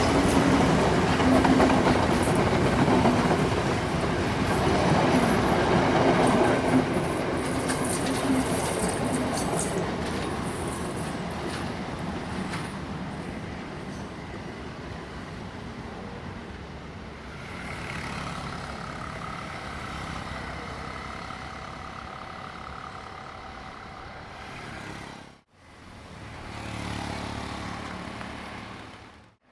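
Sri Lanka Railways diesel train running past on the track, a loud rumble and rattle of wheels on rails that fades steadily as the train moves away. A brief dropout comes near the end, followed by a short swell of train noise.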